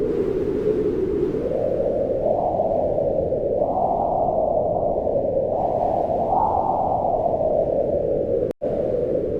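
Wind blowing in low, moaning gusts that swell and rise in pitch, then ease off again. The sound cuts out for an instant near the end.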